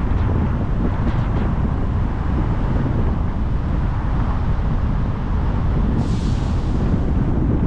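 Car driving along a road: steady engine and tyre noise mixed with wind rumbling on the microphone. A short hiss comes in about six seconds in.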